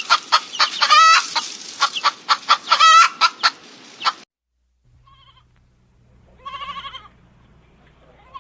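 Chickens clucking and cackling in loud, quick, repeated calls for about four seconds, which then stop abruptly. After a short gap comes a fainter warbling animal call over a low steady hum.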